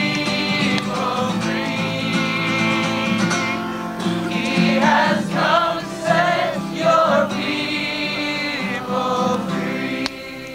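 A group of voices singing with guitar accompaniment, holding long notes. The music drops away suddenly near the end.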